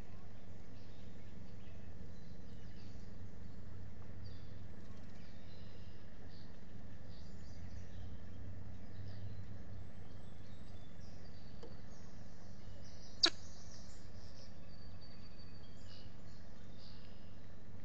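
Scattered short, high bird chirps and calls over a steady low background noise, with one sharp click about thirteen seconds in.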